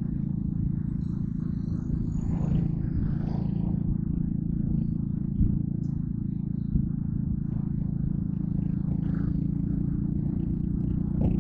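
Yamaha Crypton R's small single-cylinder four-stroke engine running at steady, low revs, an even low purr, with two brief knocks around the middle.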